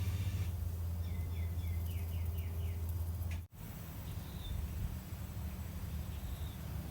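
A bird giving a quick series of about seven short chirps over a steady low hum, with a brief dropout about three and a half seconds in and a couple of faint chirps after it.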